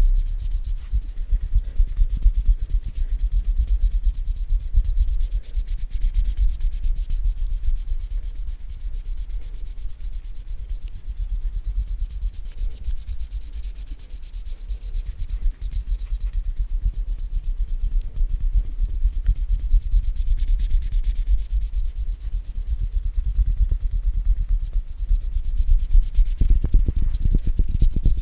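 Bare hands rubbing and brushing together close to the microphone, a continuous run of rapid dry strokes that gets a little louder near the end.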